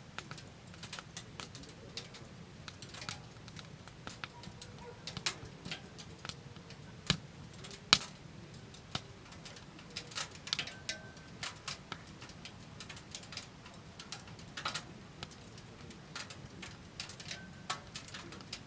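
Wood fire in a wood-burning stove crackling, with irregular sharp snaps and pops.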